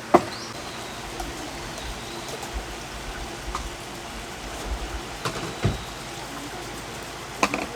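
Steady rush of a mountain stream flowing, with a few faint clicks and knocks scattered through it.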